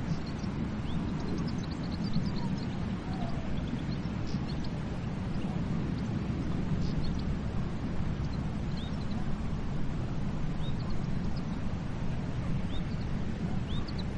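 Steady wash of sea waves, heaviest in the low end, with short high bird calls scattered throughout.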